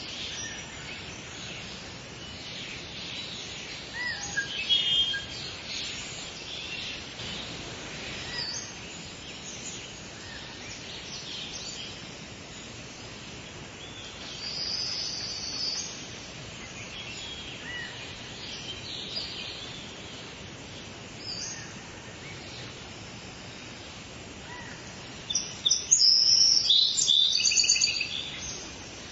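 Several wild birds singing and calling with short high chirps and phrases over a steady background hiss. Near the end, one bird gives a louder run of rapid repeated notes.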